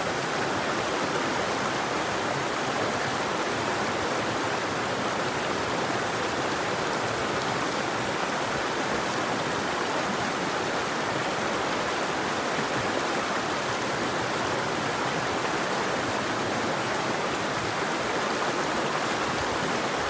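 A river's water flowing with a steady, even rush.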